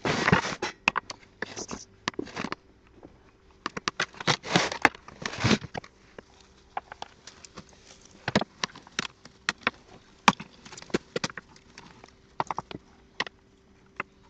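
Rustling and handling noise with scattered sharp clicks and knocks; longer rustling comes right at the start and again about four to five and a half seconds in.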